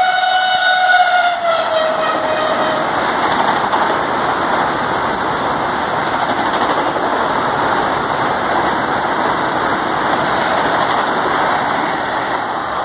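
Vande Bharat Express (Train 18) electric multiple unit passing at speed. Its horn sounds for about the first two and a half seconds and drops in pitch as the front goes by. Then comes the steady rush of the coaches running past on the rails.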